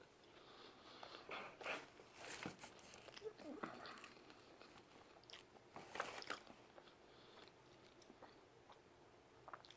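A person chewing and biting a mouthful of pizza, with faint wet clicks and crunches, heaviest in the first two-thirds.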